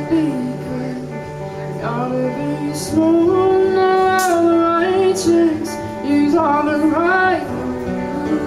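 A woman singing a song live over acoustic guitar, with a long held note in the middle.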